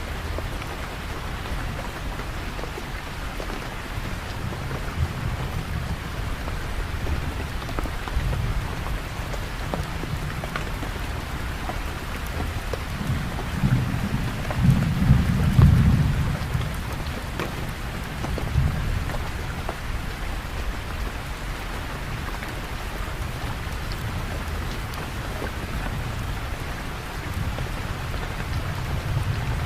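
Steady rain pattering on surfaces, with a low rumble of distant thunder that swells and fades about halfway through.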